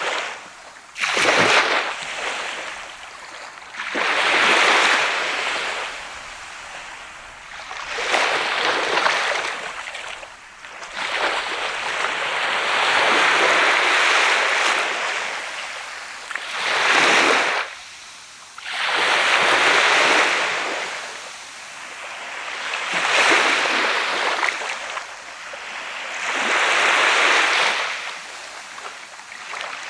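Sea waves breaking on the shore one after another, each swelling up and washing back every few seconds; a few break with a sharper, shorter crash.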